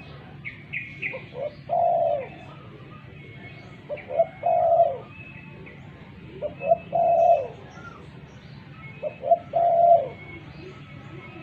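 Spotted dove (tekukur) singing: four coo phrases, each a couple of short notes followed by a longer coo that drops at the end, repeated about every two and a half seconds.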